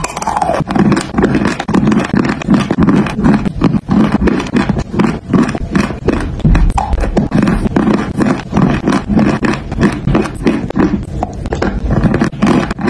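Close-miked crunching and chewing of hard edible clay, a steady run of crisp crunches several times a second.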